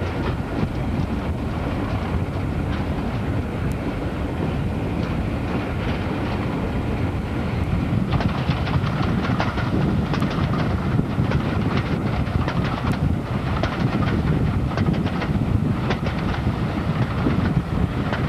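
A diesel-hauled passenger train running, heard from a carriage window: the steady rumble of the locomotive and coaches, with wheels clicking over the rail joints. The clatter gets louder and busier about eight seconds in.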